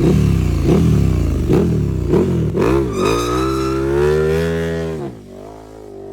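Four-cylinder sport bike engine being blipped on the throttle several times in quick succession, then revved up high and held for about two seconds before dropping back to idle.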